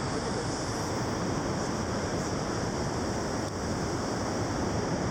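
Steady rushing of river water, an even roar without breaks.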